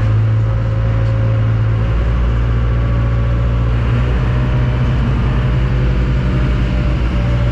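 Steady low engine drone of a moving vehicle, heard from on board.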